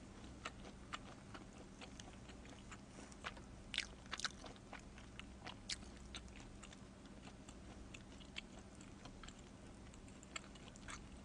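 Close-miked chewing of pizza: faint, irregular wet mouth clicks and smacks, with a couple of louder ones about four seconds in. A low steady hum lies underneath.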